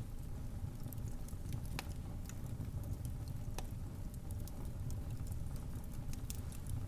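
Wood fire crackling in a fireplace: a steady low rumble of flames with many small irregular crackles and snaps, and two sharper pops about 2 and 3.5 seconds in.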